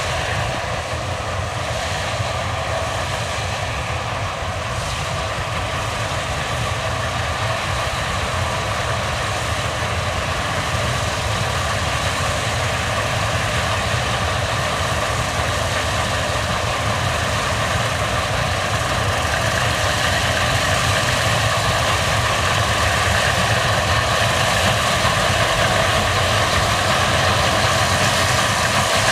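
Case combine harvester running while harvesting barley: a steady engine and machinery drone with a high whine over it, slowly growing louder.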